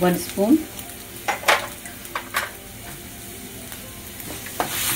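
Chopped garlic and ginger sizzling in hot oil in a kadhai, with a spatula knocking against the pan five times as it stirs.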